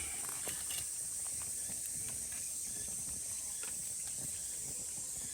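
Chorus of cicadas singing in a steady, high-pitched drone, with scattered light clicks and crackles underneath.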